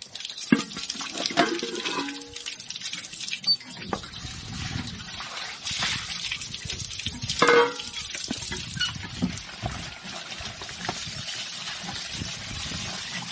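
Wet food-preparation sounds: liquid sloshing and stirring with scattered knocks and clinks, and a brief squeak about seven and a half seconds in.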